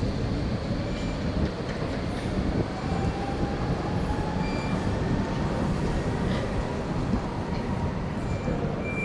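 Docklands Light Railway train pulling out of the station: a steady rumble of wheels on the rails, with a faint motor whine rising slowly in pitch as it picks up speed and a few short, high wheel squeals.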